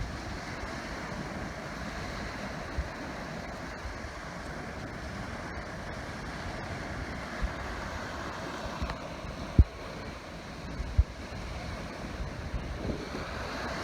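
Steady wind with gusts rumbling on the microphone. There are a few short low thumps, the loudest about ten seconds in and another about a second later.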